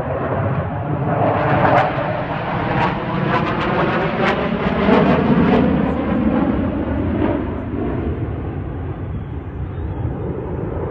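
Twin-engine Sukhoi fighter jets (Su-35 and Su-30SM) flying a display pass with a loud jet roar, with several sharp crackles in the middle. The roar swells twice, then fades toward the end.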